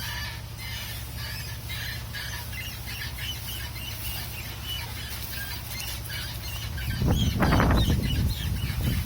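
Short squeaks from the rear wheel area of a Mitsubishi Montero Sport, repeating about twice a second in time with the wheel's rotation as it rolls in reverse, over a steady low rumble. It squeaks only in reverse, and the owner takes it for something in the rotating parts: wheel, axle or driveshaft. A louder low rumble comes in about seven seconds in.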